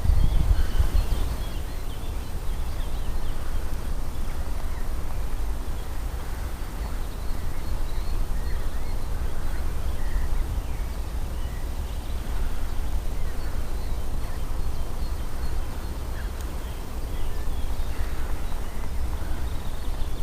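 Wind rumbling on the microphone, with faint, scattered bird chirps over it.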